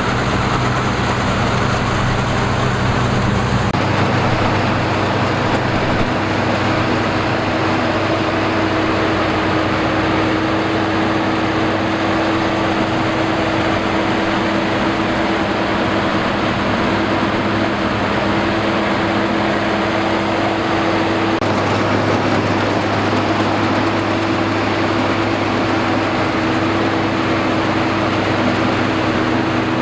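Combine harvester engine running steadily under load, a dense mechanical drone with a steady hum. Its tone shifts slightly about four seconds in and again about two-thirds of the way through.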